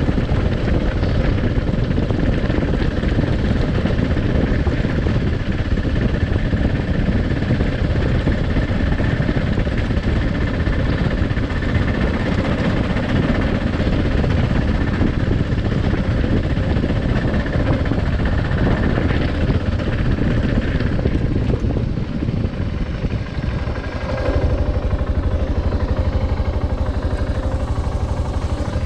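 Adventure motorcycle's engine running as the bike is ridden along, a dense, steady drone. About three-quarters of the way through it eases off briefly, then carries on at a steadier, lower note.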